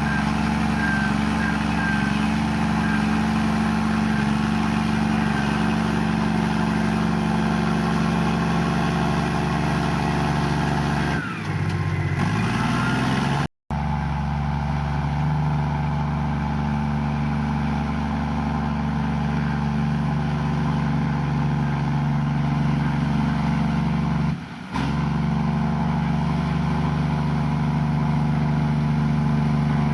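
Komatsu bulldozer's diesel engine running steadily, with a brief rise in pitch about halfway through and a momentary cut-out right after it.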